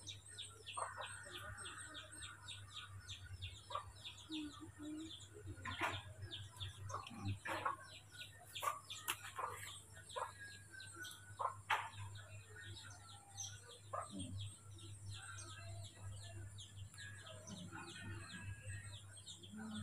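Faint birds chirping rapidly and continuously, several short high chirps a second, over a low steady hum.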